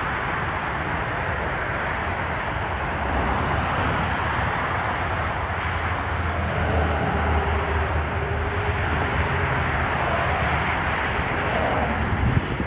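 Steady noise of highway traffic, with cars and trucks passing by.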